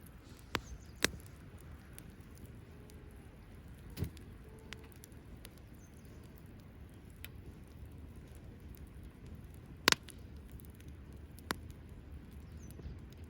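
Wood fire burning in a Belmont BM-263 TABI compact fire stand. It crackles with scattered sharp pops over a steady low background, and the loudest pop comes about ten seconds in.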